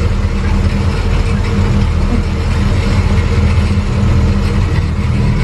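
Tow vehicle of a trackless road train, its engine running steadily, heard from on board the ride with a constant hiss of road and wind noise.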